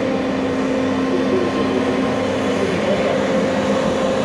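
Mount Washington Cog Railway train making a steady hum with a couple of held low tones over a hiss, with no clear rhythm.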